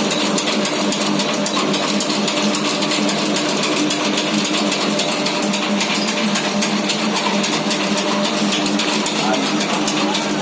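Stainless-steel flour sifting machine running: a steady motor hum with a fast, even rattle from the vibrating sieve.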